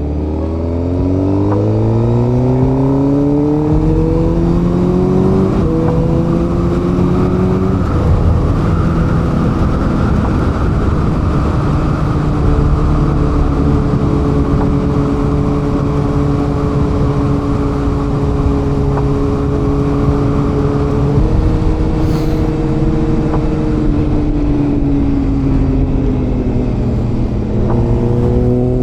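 Suzuki GSX-R750's inline-four engine accelerating through the gears, with upshifts about five and a half and eight seconds in, then holding a steady cruise. Late on, the engine note falls as the bike slows, then rises again as it pulls away. A steady rush of noise lies under the engine throughout.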